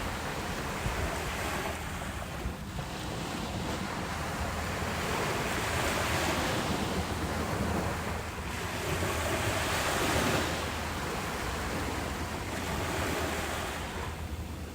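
Ocean surf breaking and washing up a beach, a continuous rush that swells and eases every few seconds, fullest about six and ten seconds in.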